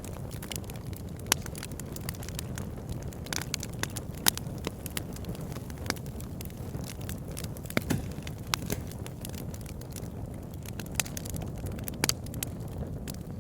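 Campfire burning: a steady low rush of flame with frequent sharp, irregular crackles and pops of burning wood, a few louder snaps scattered through.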